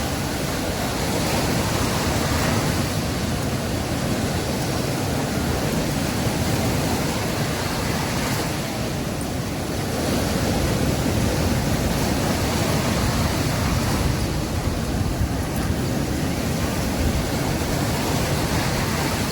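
Sea waves washing onto a beach: a steady rush of surf, swelling a little louder about halfway through, with a low wind rumble on the microphone.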